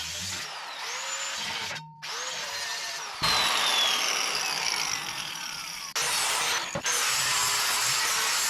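Power tool running in short stretches that start and stop abruptly, with a falling whine in the middle.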